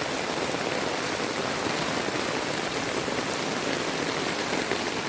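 Heavy rain falling steadily in a tropical storm downpour.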